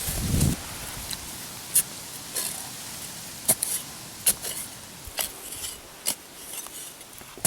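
Digging in loose, sandy soil: a hand tool scraping and scooping earth, with sharp clicks every second or so.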